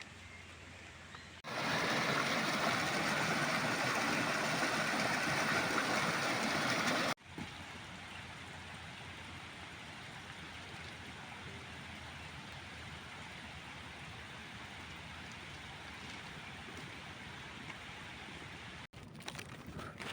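A steady rushing noise with no distinct events. It is louder for about six seconds starting just after the beginning, then drops sharply at an abrupt cut to a quieter, even rush, with another abrupt cut near the end.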